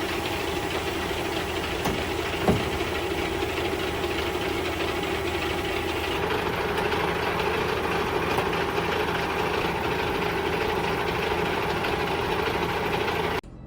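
Truck running, with a steady engine and road noise and a brief click about two and a half seconds in; the sound cuts off abruptly near the end.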